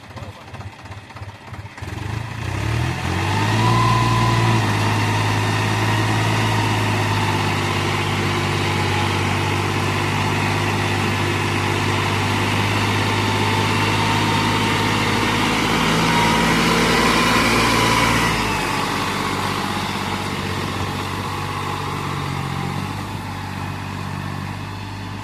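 New Holland 4710 tractor's diesel engine, just started, chugging unevenly for a couple of seconds. It then revs up and is held at high revs for about fifteen seconds before easing back to a lower, steady run near the end.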